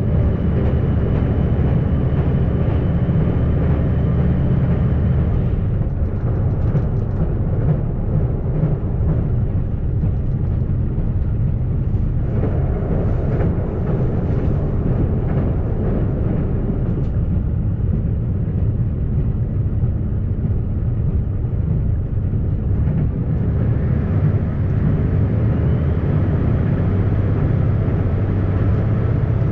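JR Shikoku 2700 series diesel railcar running along the line, heard from on board. There is a steady engine drone under the rolling noise of wheels on rail.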